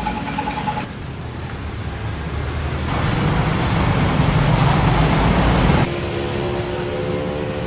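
Street traffic: a motor vehicle passes close by, its noise swelling over a few seconds and then cutting off suddenly about six seconds in, after which a few steady held tones are heard.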